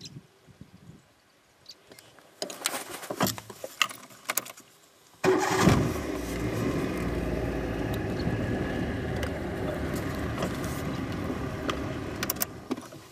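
An engine starts suddenly about five seconds in and then runs steadily until it fades near the end, with a few clicks and knocks before it starts.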